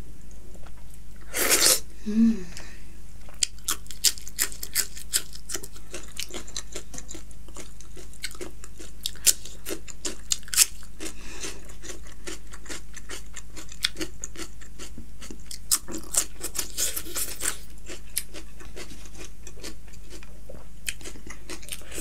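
Close-miked chewing of curried meat: many irregular wet mouth clicks and smacks, with a brief louder sucking noise about a second and a half in.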